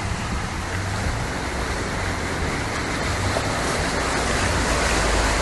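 Steady rushing of water, a dense even hiss that gets slightly louder about halfway through.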